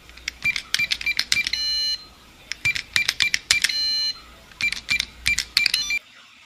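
Intro sound effect for an animated title card: three bursts of rapid sharp clicking. The first two each end in a bright, briefly held bell-like ding, and the sound cuts off shortly before the end.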